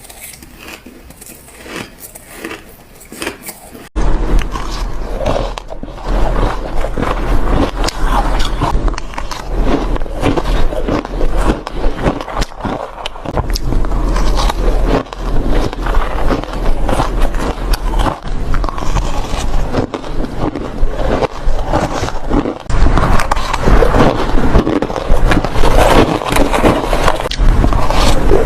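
Shaved ice being bitten and chewed close to the microphone: dense, irregular crunching. It is fainter at first and jumps much louder about four seconds in, with a low hum underneath from then on.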